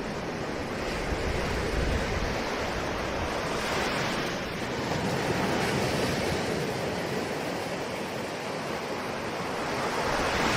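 Ocean waves washing onto a shore, a continuous surf hiss that swells and recedes, with one wave building about four seconds in and another near the end.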